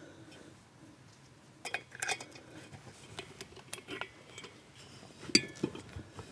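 Scattered metallic clinks and taps of a valve spring compressor and small steel valve parts being handled while an intake valve is fitted into a motorcycle cylinder head. The loudest clink comes about five seconds in.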